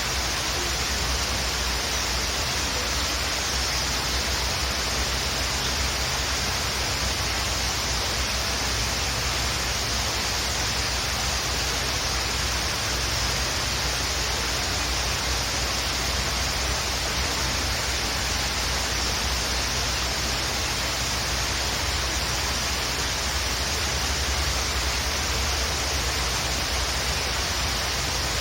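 Waterfall: a steady, unchanging rush of falling water with a low rumble underneath.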